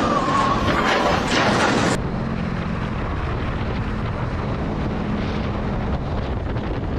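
Vehicle noise: a loud rushing roar that cuts off abruptly about two seconds in to a steadier, quieter low engine hum.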